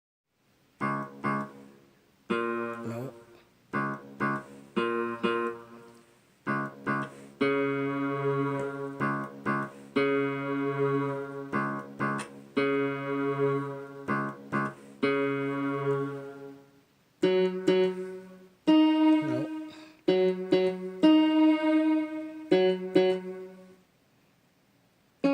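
Guitar playing chords, each one struck and left to ring out, in phrases with short pauses between them. It stops about a second before the end.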